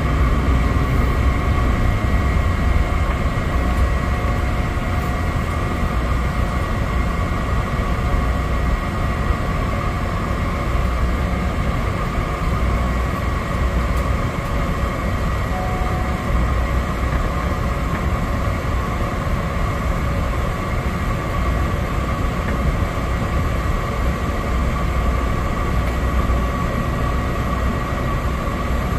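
Cabin noise of a Cessna 208 Caravan's single PT6A turboprop engine and propeller, a steady loud drone with low rumble and a constant high whine heard from inside the passenger cabin.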